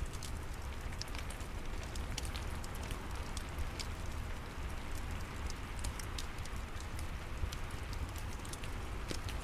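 Steady rain hiss with a low rumble underneath, mixed with a fireplace crackling: many small, sharp pops scattered throughout.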